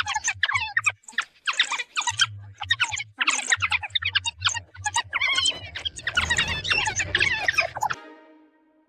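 African wild dogs twittering: many short, high-pitched chirps and squeaks in quick succession over a low hum, cutting off about eight seconds in.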